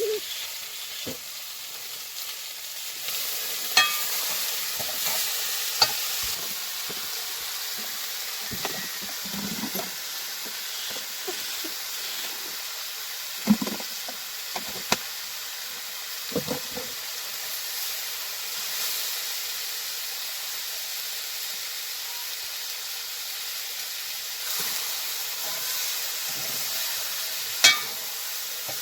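Food sizzling in a hot pan while being stirred: a steady frying hiss broken by occasional sharp clicks and knocks, the loudest near the end.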